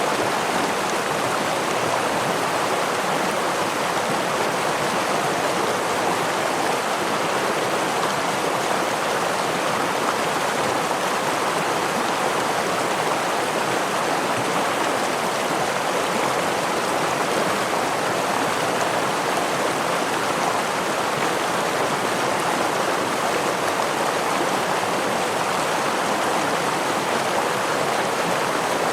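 Running water of a gentle stream and waterfall, a steady, even rush with no changes.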